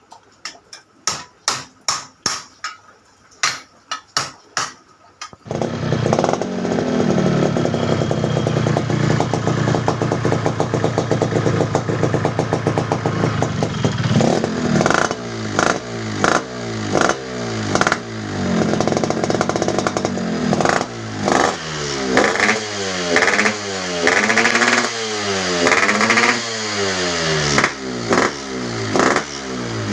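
Hammer strikes, about three a second, then about five seconds in a Yamaha RX-King's two-stroke single-cylinder engine starts through a gutted, de-baffled ('bobokan') exhaust. It runs steadily, then from about fourteen seconds in it is revved again and again in quick blips.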